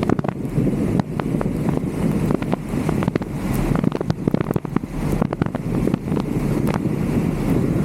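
Wind buffeting the microphone of a roof-mounted camera in a thunderstorm, a steady low rumble, with many sharp irregular taps of raindrops striking the camera.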